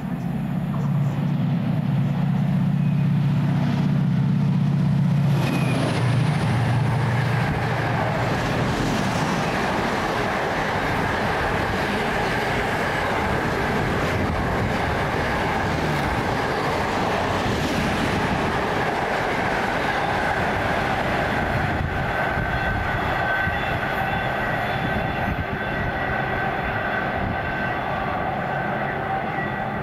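A train running past on the railway line: a low steady hum for the first five seconds or so, then steady rolling noise of wheels on rails with faint high whining tones.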